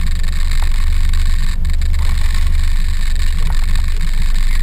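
Fishing boat's motor running at a steady low drone, with a constant hiss over it.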